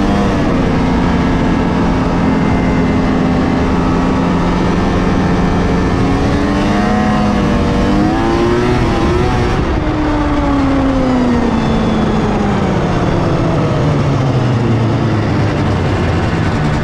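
1997 Polaris XCR 600 snowmobile's three-cylinder two-stroke engine running on the move through its factory triple pipes. It holds a steady pitch, rises and falls around halfway, then winds down slowly for several seconds and picks up again near the end.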